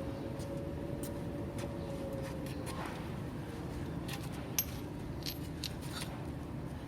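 Hand tools and small metal parts clinking a few times, mostly in the second half, over a steady low hum.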